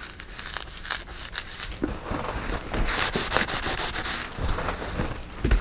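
Hands rubbing and smoothing paper on a work surface: a dry scraping rustle that gets busier about two seconds in.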